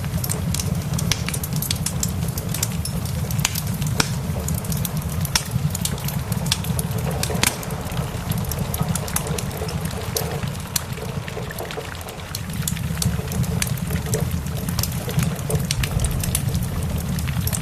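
Wood fire crackling with frequent sharp, irregular pops, over steady rain and a constant low rumble of a thunderstorm.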